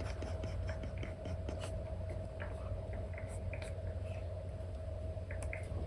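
Stylus nib tapping and scratching in short, irregular strokes on a paper-feel screen protector, over a steady low hum. The ticks come thickly near the start and more sparsely after.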